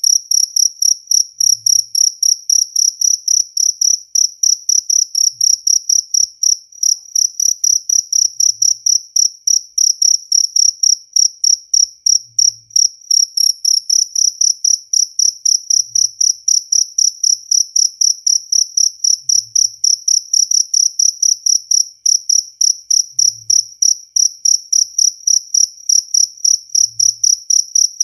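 Jaliteng cricket chirping loudly: a high-pitched, evenly spaced train of rapid chirps that goes on without a break.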